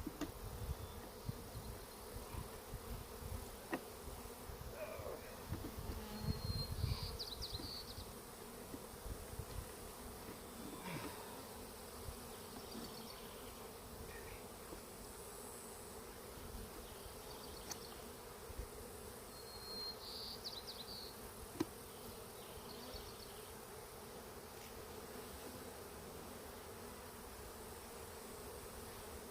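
Honeybees buzzing as a steady hum around a disturbed, opened hive, with low handling knocks and rumbles about six to eight seconds in. Two short high chirps stand out above the hum.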